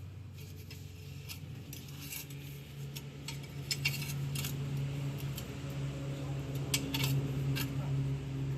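Metal tools clinking and tapping on metal parts, several sharp clinks a second, over a steady low machine hum that grows louder partway through.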